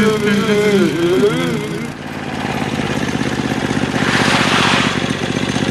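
Small minibike engine running steadily with a fast, even pulse. Over it in the first two seconds is a man's long, wavering cry. A brief hiss swells up about four seconds in.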